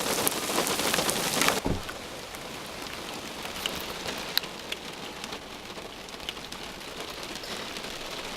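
Heavy rain falling, which drops off abruptly about a second and a half in to lighter rain with scattered separate drops.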